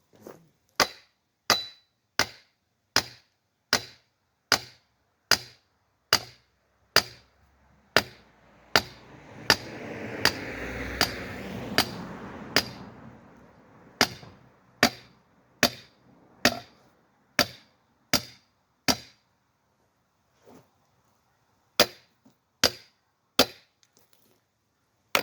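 Firewood being split: a tool strikes a log over and over in an even rhythm, about one sharp crack every three-quarters of a second, with a short break near the end. A rushing noise swells and fades in the middle.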